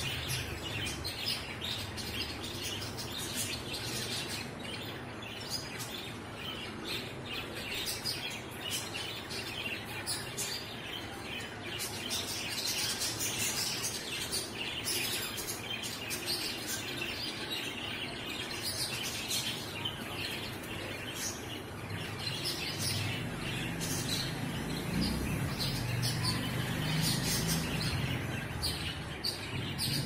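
Small birds chirping: many short, high chirps over steady background noise, with a low rumble joining in the last several seconds.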